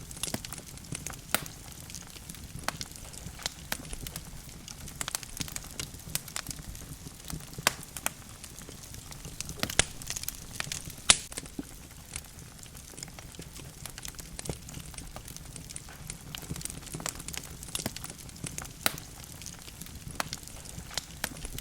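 Wood logs burning in an open fireplace: irregular sharp crackles and pops over a steady low rush of the flames, with a couple of louder pops about ten and eleven seconds in.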